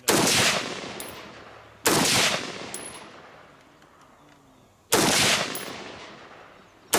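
Four single gunshots spaced about two to three seconds apart, each trailing off in a long echo.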